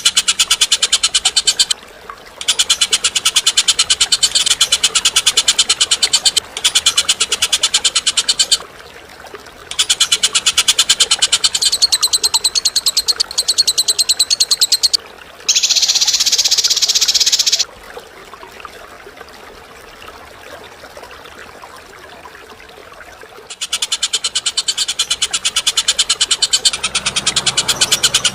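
Bird trilling in long, very rapid, buzzy bouts of several seconds each, with a quiet stretch of about six seconds past the middle.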